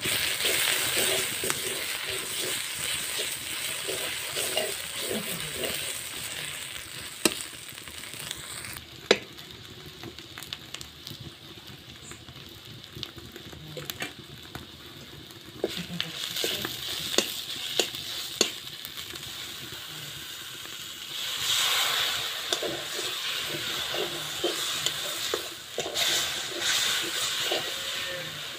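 Onion-and-spice masala sizzling in a hot wok while a metal spatula stirs and scrapes it against the pan, with a few sharp taps of the spatula on the metal. The sizzling is stronger at the start and again for a stretch near the end.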